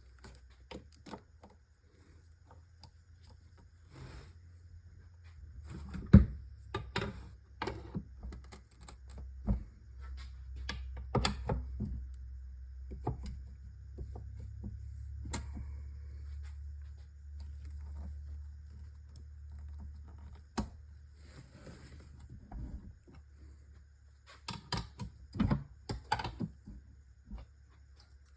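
Irregular metal clicks and knocks of a pry bar and needle-nose pliers working around a manual transmission case to spread the snap ring and split the case halves. One sharp knock about six seconds in is the loudest, with a low steady hum underneath through the middle.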